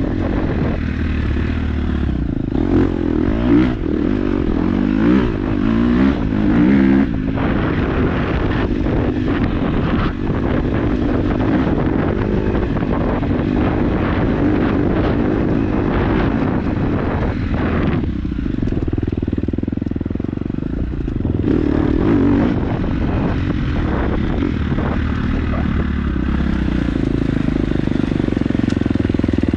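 KTM 250 dirt bike engine running under constantly changing throttle, revving up and down as it rides, with short knocks and rattles throughout.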